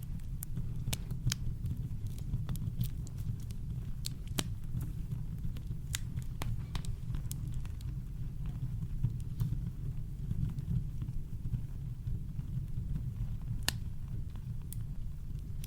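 Campfire crackling: sharp, irregular pops and snaps, more frequent in the first half, over a steady deep rumble of brown noise.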